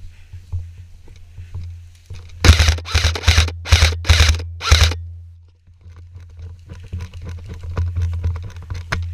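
Airsoft gun firing about five short bursts of rapid shots in quick succession. Afterwards, irregular crunching and rustling of steps through brush.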